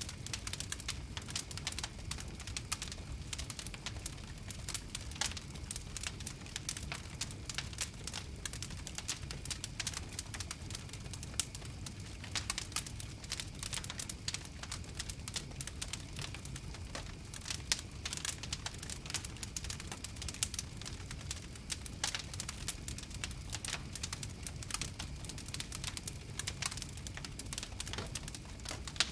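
Campfire crackling steadily: dense, irregular sharp pops and snaps over a constant low rumble of the flames.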